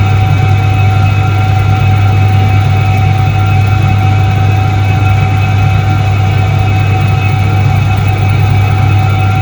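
Soviet ISET-3 washing machine from 1978 running steadily: a constant low hum with a fainter steady whine above it and no change in pace.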